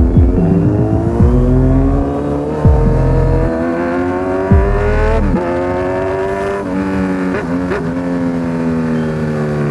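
Sportbike engine accelerating hard through the gears, its pitch climbing steadily and dropping back at each upshift, about five and eight seconds in. Several sharp exhaust pops come in the first few seconds.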